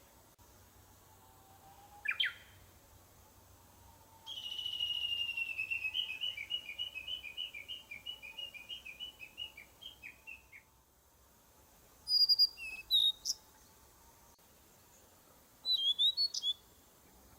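Wild songbirds calling: one sings a long trill of about six seconds that slows and drops in pitch, with short sharp chirps before and after it.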